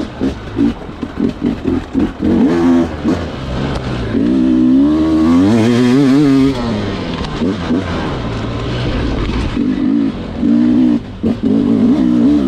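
Sherco two-stroke dirt bike engine working through technical off-road terrain: short, quick throttle blips, a longer rise and fall in revs about five seconds in, then more blips near the end.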